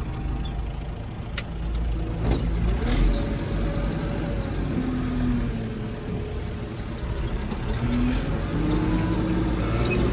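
Backhoe loader's diesel engine running steadily under work, with a couple of sharp knocks in the first few seconds.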